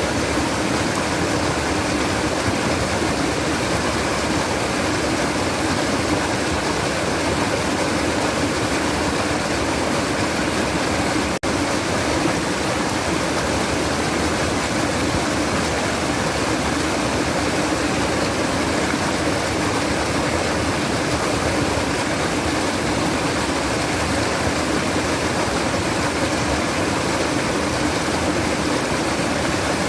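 Babbling, flowing stream water, a steady rush with one momentary break about eleven seconds in.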